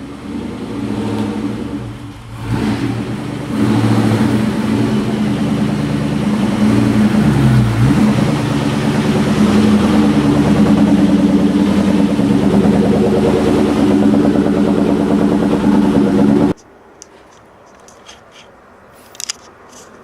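Car engine running loudly, its pitch dipping and rising again as it is revved. It cuts off suddenly near the end, leaving quiet with a few light clicks.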